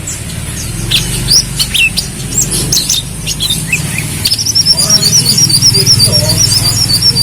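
Kolibri kelapa sunbird singing: scattered sharp, high chirps, then from about four seconds in a fast, continuous warbling trill. A steady low hum runs underneath.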